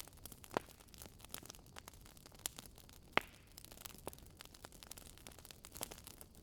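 Wood burning in a fireplace, crackling with a stream of irregular small pops over a soft hiss, and one sharper pop about three seconds in.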